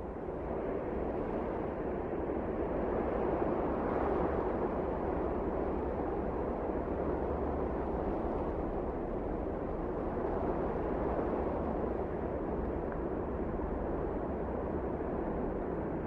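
Wind blowing steadily, a dense rushing noise that swells over the first few seconds and then holds even.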